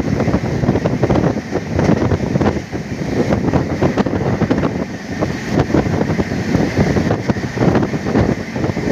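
Passenger express train running at speed, its wheels clattering irregularly over the rails, heard from an open door or window with heavy wind buffeting on the microphone.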